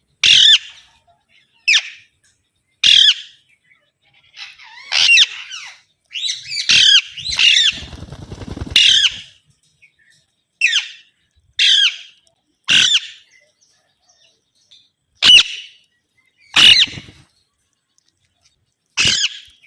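A pet green parrot giving a series of short, harsh squawks, roughly one a second, with a longer rasping chatter near the middle.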